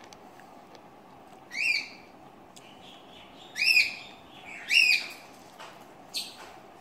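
A bird calling: a series of short, loud chirps a second or two apart, each rising then falling in pitch.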